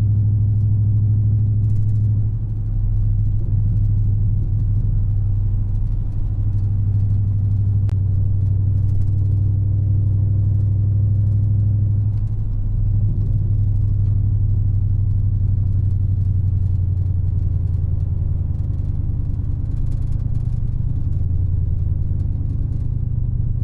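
Dodge Charger Scat Pack's 6.4-litre HEMI V8 running under way at a steady cruise, a low, even drone that shifts slightly in pitch a few times.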